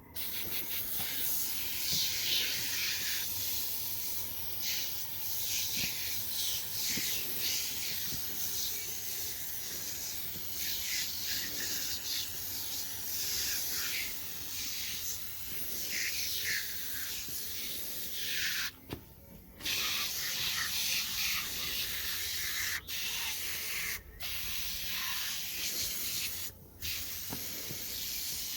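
Sprayer hissing as cleaner is sprayed onto a dirty gearbox, in long continuous spells broken by a few short pauses.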